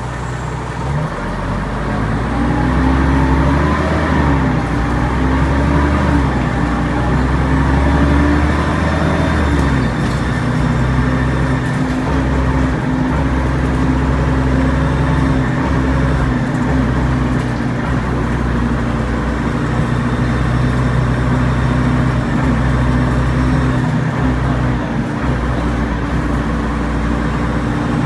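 Alexander Dennis Trident Enviro 500 double-decker bus with a ZF automatic gearbox pulling uphill. Its engine and driveline whine, the so-called "airplane sound", rise and fall in pitch for about the first ten seconds, then settle into a steady drone.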